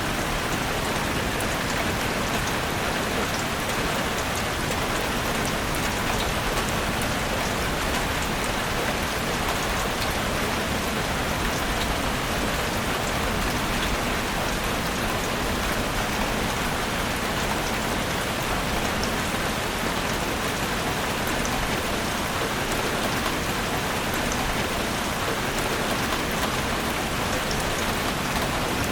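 Steady rain falling in a forest: an even hiss with scattered individual drop ticks, no change in strength.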